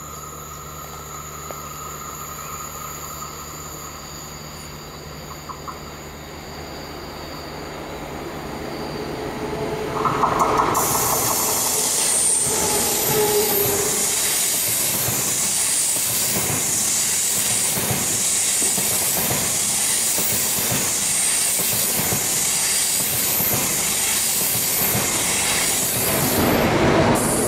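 ICE high-speed train approaching and then passing at speed. A low, rising approach gives way about ten seconds in to a loud rush of wheels and air, with rapid repeated clacking as the bogies pass over the rails. The sound swells once more just before it drops away at the end.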